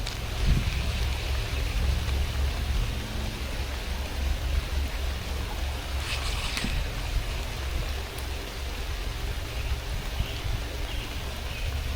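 Steady rush of creek water around a canoe, with a low rumble throughout and a brief louder hiss about halfway through.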